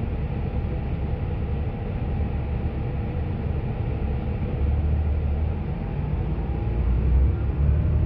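2019 Gillig Low Floor transit bus engine running with a steady low drone and a faint steady hum. Near the end a faint rising whine joins in as the drone grows a little louder. This is the noise the recorder finds strange.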